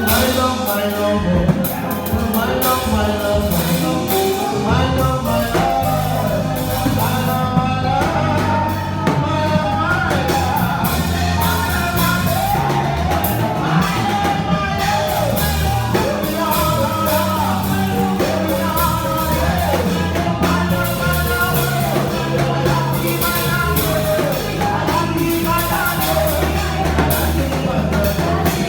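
Live gospel band music with singing: a steady drum-kit beat and bass under a sung melody.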